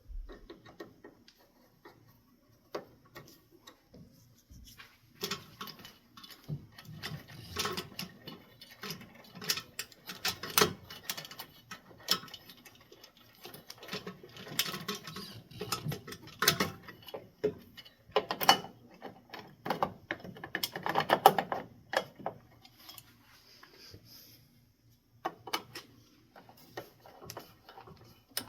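Screws being fitted with a hand screwdriver while metal ceiling-fan mounting parts clink and rattle: irregular clicking and ratcheting, sparse at first, busiest through the middle and thinning out near the end.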